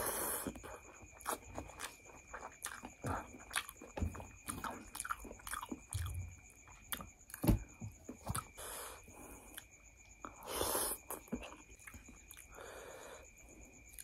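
Close-miked chewing of a mouthful of noodles: irregular wet mouth clicks and smacks, with a longer noisy burst about ten seconds in.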